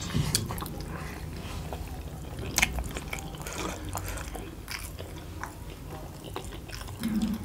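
Two people chewing and biting into large, soft steamed chicken taipo momos: wet mouth sounds with scattered short clicks.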